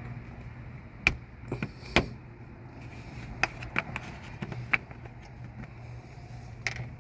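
Hand tools working a stubborn fastener loose on a truck's radiator, giving a handful of sharp metallic clicks and clinks spread over several seconds, over a steady low hum.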